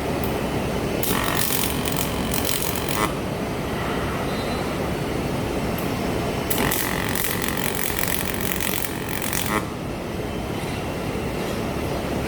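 Two spells of welding arc crackle, the first about two seconds long and the second about three, over a steady low rumble.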